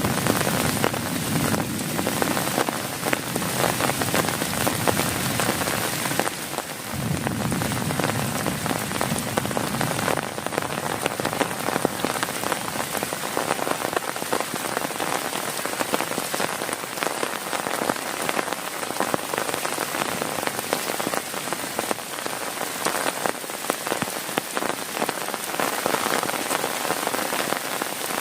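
Heavy rain falling on a tent, a dense crackle of drops hitting the surface. A low rumble swells briefly near the start and again about seven seconds in.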